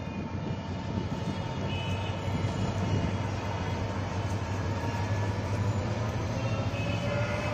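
Bangladesh Railway intercity passenger train pulling out of a station, its coaches rolling past with a steady low rumble of wheels on the rails.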